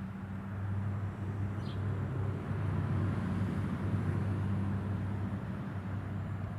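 Steady low mechanical hum, with one short faint high chirp about one and a half seconds in.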